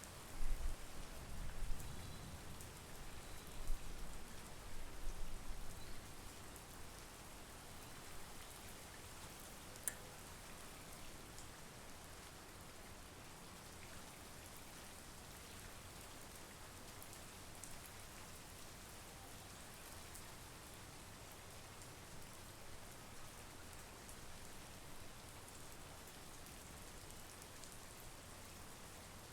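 Steady monsoon rain falling, with a few irregular low rumbles during the first six seconds.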